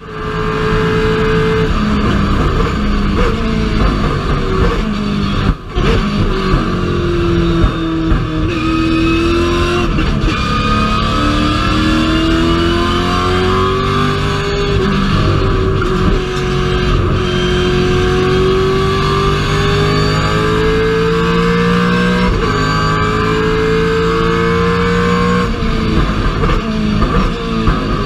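Holden Commodore VF Supercar's V8 racing engine at speed, with the high-pitched whine of its Xtrac six-speed sequential straight-cut gearbox. The pitch slowly rises and falls, with a few brief breaks.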